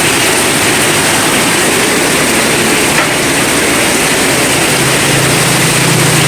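Heavy rain falling hard, a loud steady hiss of downpour. A low steady hum joins about five seconds in.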